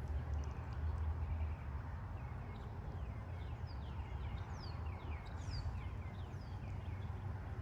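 Wind buffeting the microphone as a steady low rumble, a little stronger in the first second or so. Through the middle a bird calls a quick run of short chirps that slide downward in pitch.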